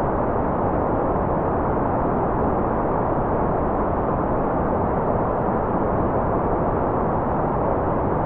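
Steady, generated white-noise track: an even, unchanging hiss, muffled and weighted toward the low end rather than bright.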